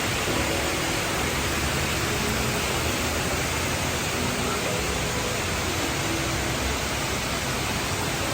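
Steady rushing of a large indoor waterfall, the Rain Vortex at Jewel Changi, pouring from the dome into its pool.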